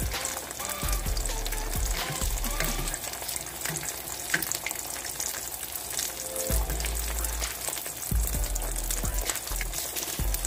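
Beaten egg sizzling and crackling steadily in a nonstick frying pan over low heat as a wooden spatula lifts and rolls the edge of the omelette, with music playing underneath.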